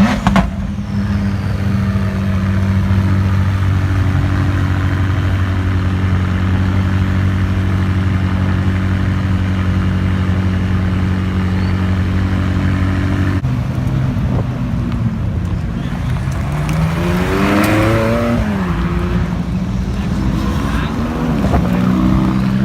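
Car engine idling steadily, then revved twice in the second half, the pitch climbing and dropping back each time.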